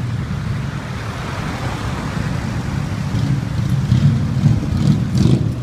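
Several motorcycle engines running at low revs, a steady low rumble that grows a little louder about four seconds in.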